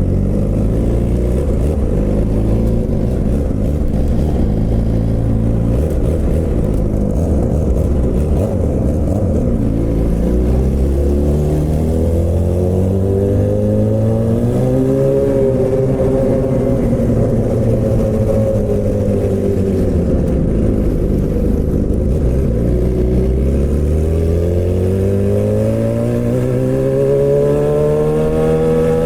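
Suzuki GSX-R600 K7 inline-four with a straight-pipe exhaust and no catalytic converter, ridden under way. The engine note climbs about halfway through, eases back down, then climbs again near the end.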